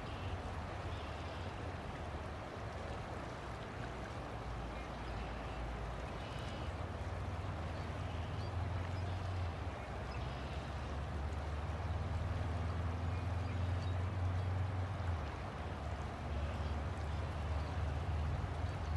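River water flowing with a steady rushing sound, and a low rumble underneath that swells from about a third of the way in and again near the end.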